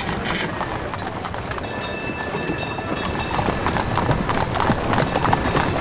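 Horses' hooves clip-clopping on a street, many hoofbeats overlapping, from horse-drawn carriages. About two seconds in, a steady high metallic ring sounds for a second or so.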